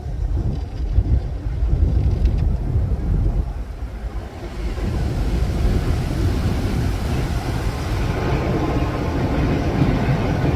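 Car running, heard from inside the cabin: a steady low engine and road rumble, with a broader rushing noise that swells about halfway through.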